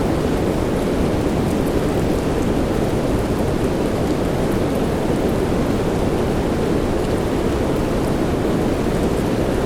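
Steady rain blended with white noise: an even, unbroken hiss weighted toward the low-middle, with faint small drop ticks on top.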